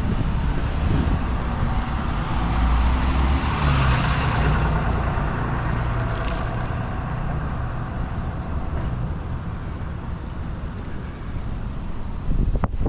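A motor vehicle's engine on the street, growing louder to a peak about four seconds in and then slowly fading, as a vehicle passing by.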